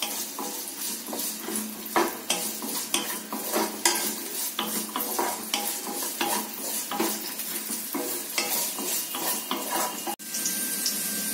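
Chopped bitter gourd sizzling as it is sautéed in well-heated oil in a nonstick wok. A wooden spatula stirs it, scraping and tapping against the pan many times. Near the end the stirring stops and only the sizzle goes on.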